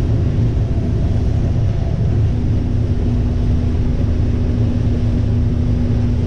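Combine harvester running steadily while shelling corn: an even low drone with a constant hum over it.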